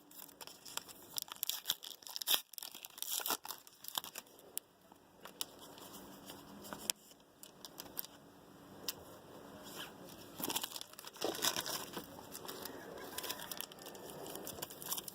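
Trading-card pack wrappers being torn open and crinkled by hand, an irregular run of crackling and tearing with denser stretches early and again near the end.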